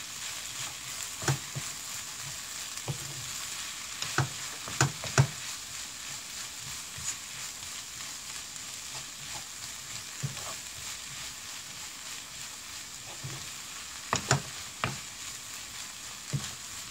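Fried rice with chopped vegetables sizzling in a hot pan as a wooden spatula stirs and tosses it: a steady frying hiss, with the spatula knocking against the pan now and then, in quick runs of three knocks a few seconds in and again near the end. The rice has just been seasoned and is being stir-fried once more.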